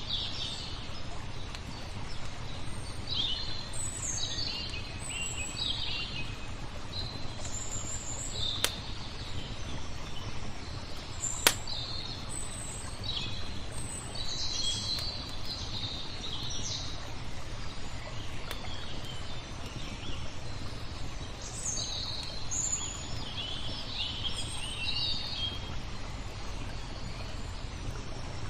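Small birds chirping and twittering in many short phrases over a steady low background rumble, with two sharp pops, likely a wood fire, about a third of the way in.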